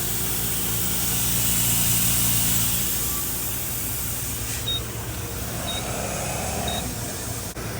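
Gas-station air compressor running with a steady hum and hiss while tires are aired up, with three short high beeps about a second apart in the second half and a sharp click near the end.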